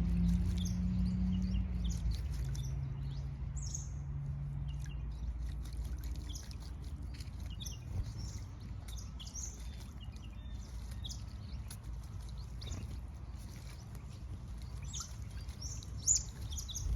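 Red-capped parrots calling in short, scattered chirps over a low rumble. A deep droning hum fades out over the first few seconds, and there is a sharper, louder call near the end.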